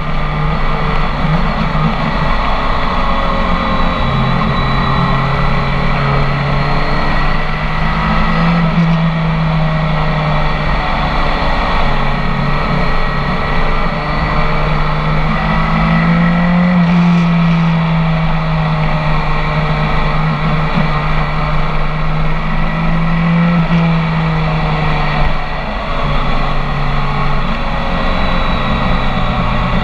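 BMW K1300S inline-four engine through a full Akrapovic exhaust, heard from on board while riding, running at a fairly steady pitch that rises and falls gently with the throttle and drops a few times.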